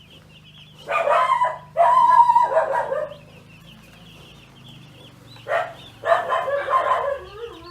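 Chicks peeping steadily, with a rooster crowing twice, the second crow near the end.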